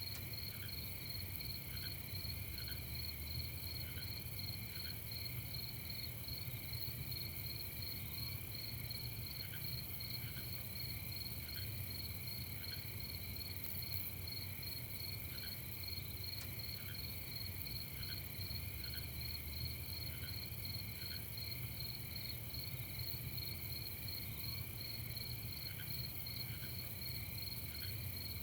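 A night chorus of crickets and other insects, steady trilling at several pitches with the highest one pulsing rapidly. Short lower chirps come in pairs every second or so, over a low, even rumble.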